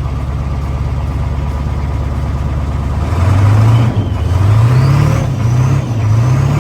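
Diesel truck engine running just after a cold start: it idles steadily for about three seconds, then is revved three times, the pitch climbing each time with a faint high whine rising above it.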